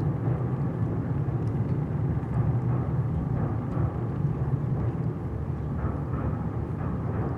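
A distant passenger train rolling onto a railway bridge, heard as a steady low rumble.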